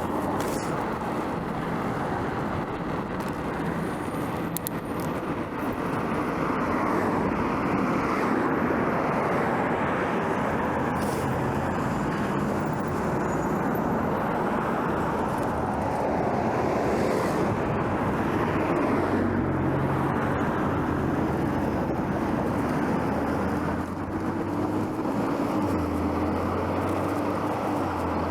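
Steady road traffic noise heard from a bicycle riding along a city street, swelling and fading as cars pass. A vehicle engine's low hum comes in over the last several seconds.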